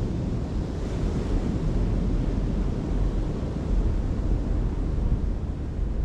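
Wind buffeting the microphone over the wash of ocean surf, a steady deep noise with no distinct events.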